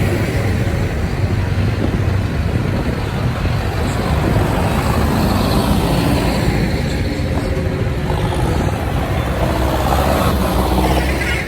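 Tractor engines running steadily on the road, a continuous low diesel rumble.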